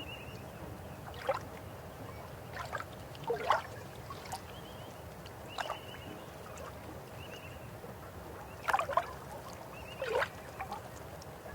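River water flowing steadily, with a string of loud, short gurgles and plops as water bubbles over rocks, several near the middle and a cluster near the end.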